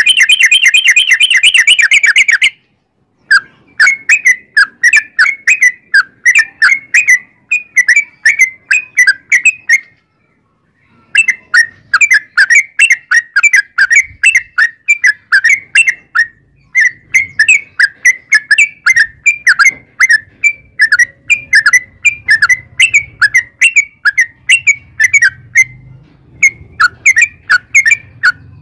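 Yellow-vented bulbul singing in long, rapid runs of bubbly, whistled notes, several a second, in the fast rolling style that keepers call 'ropel'. The song breaks off briefly about three seconds in and again about ten seconds in, then carries on.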